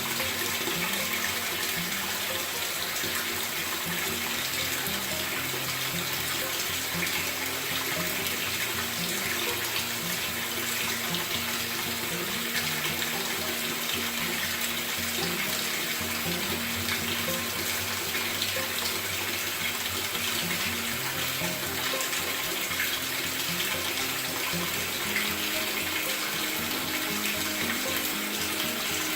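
Water pouring steadily into the tub of a Maytag top-load agitator washer as it fills.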